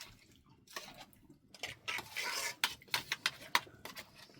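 Utensils clinking and scraping against dishes: a series of sharp irregular clicks, with short scraping rubs in the middle.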